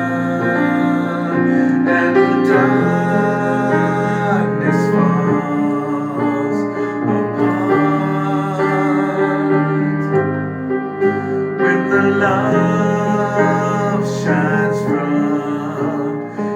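A slow devotional chant sung over piano or keyboard accompaniment, with long held notes.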